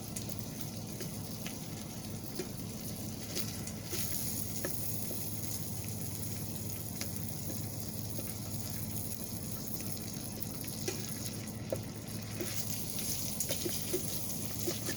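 Ribeye steak searing in oil and butter in an Instant Pot's inner pot: a steady sizzle with scattered small pops and crackles, over a steady low hum.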